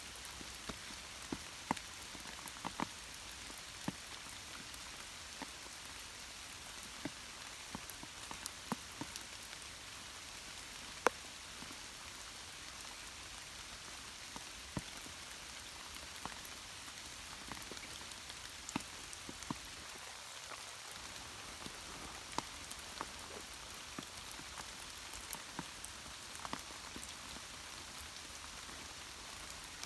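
Rain falling steadily with a constant hiss, and individual drops ticking sharply and irregularly on nearby surfaces.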